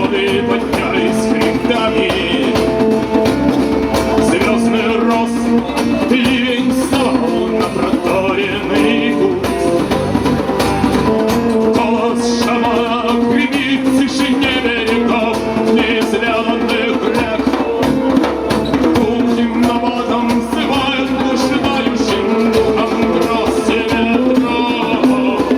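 A band playing a song, with guitar and a steady beat.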